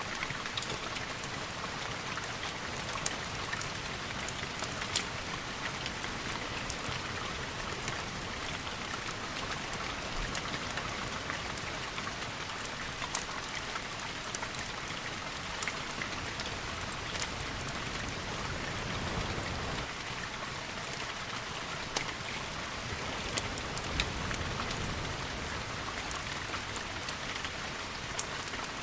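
Steady rain falling, with many scattered sharp ticks and pops through it, and a low rumble swelling briefly twice in the second half.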